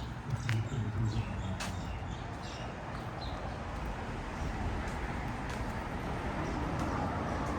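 Small birds chirping in short calls for the first few seconds. About halfway through, a vehicle's engine and tyre noise builds as it approaches.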